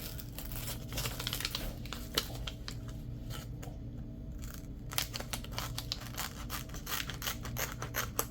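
Scissors snipping repeatedly as they cut around a patch glued onto Velcro, with a short lull in the middle.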